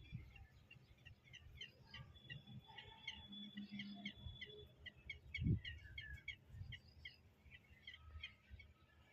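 Small birds chirping in quick, repeated short notes, with a low rumble underneath and one low thump about five and a half seconds in.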